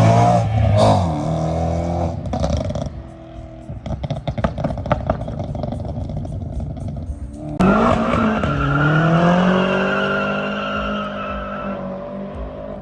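Car engine revving hard, its pitch gliding up and down, then a stretch of rapid crackling; about 7.5 seconds in a loud rev rises sharply and holds before slowly fading.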